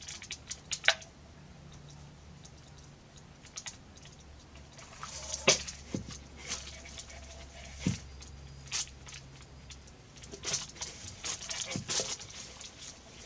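Scattered small clicks, taps and rustles of hands working rope around a pot, with a faint low hum through the middle.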